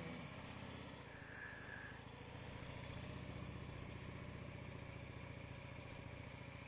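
Harley-Davidson V-twin with Cobra exhaust pipes running at low speed through slow U-turns, a steady low rumble that swells slightly a few seconds in.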